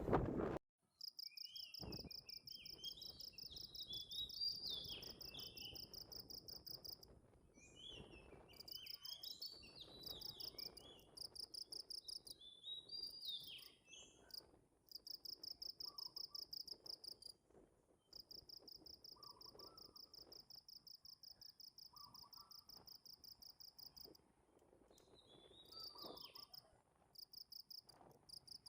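Insects chirping in fast, even trills that run in bouts of a few seconds, stopping and starting again. Birds chirp over them in the first half, and short lower calls come a few times near the end.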